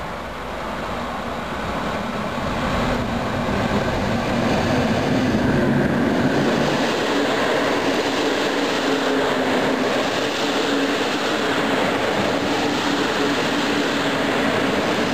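CFR Class 41 electric locomotive hauling a passenger train approaches and passes close by. The sound builds over the first few seconds, then holds as a steady rush and rumble while the coaches, double-deck cars among them, roll past.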